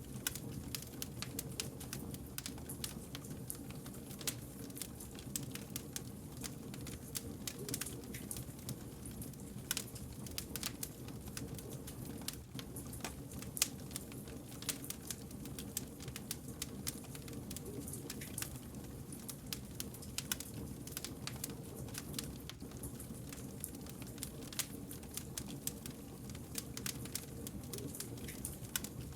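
Wood campfire burning with a steady low rumble and many small, irregular crackles and snaps.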